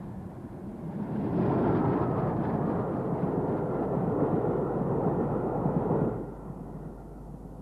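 Steam train running past: a noisy rumbling rush that swells about a second in and falls away about six seconds in.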